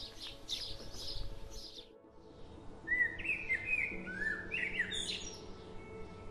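Songbirds singing: a busy twittering of small birds, then a short break about two seconds in, followed by clear whistled phrases that glide in pitch, from a single bird.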